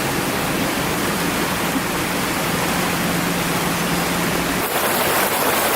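Steady rush of flowing water from a brook and its falls, turning brighter and hissier about four and a half seconds in.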